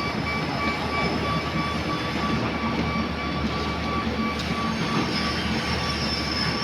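Construction machinery running steadily: a constant low hum with a held high whine above it, and no breaks.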